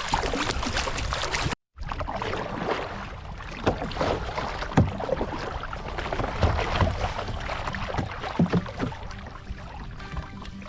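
Kayak paddling on a lake: water splashing and dripping from irregular paddle strokes over a steady wash of water noise.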